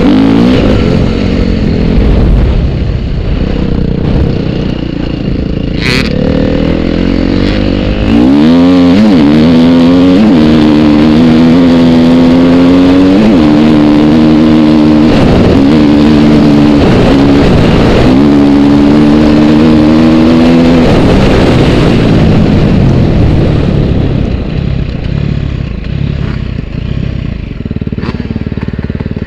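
Motorcycle engine running at low revs, then, about eight seconds in, accelerating hard and climbing in pitch through several gear changes, each shift a quick dip before the next climb. The note falls away after about twenty seconds. A sharp click sounds shortly before the launch.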